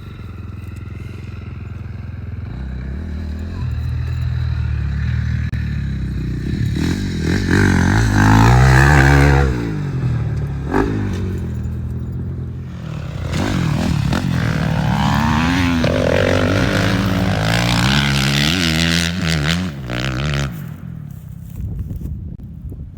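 Motocross dirt bikes revving up and down as they ride the track. The engine sound swells to a loud pass about eight seconds in, rises again for several seconds past the middle, then drops away about twenty seconds in.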